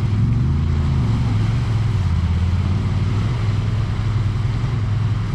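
Off-road vehicle engine running at low revs, its pitch dipping and rising briefly about a second in, then holding steady.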